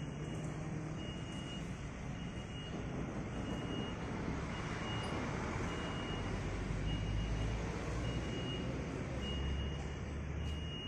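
Lovol FR80 excavator's diesel engine running, its low note swelling under load in the middle and again near the end, with a short high beep repeating about once a second.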